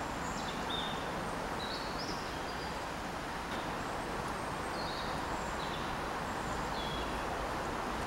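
Small birds giving a scattering of short, high chirps over a steady rushing background noise.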